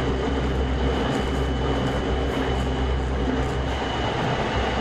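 Running noise heard inside a Tokyo Metro 03 series VVVF-inverter commuter car on the move: a steady rumble of wheels on rail and traction equipment under the floor, with a thin, steady high tone above it.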